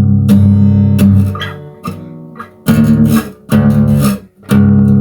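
Guitar chords strummed in a song's instrumental outro. The sound dies away about halfway, then three separate strums follow, the last chord left ringing.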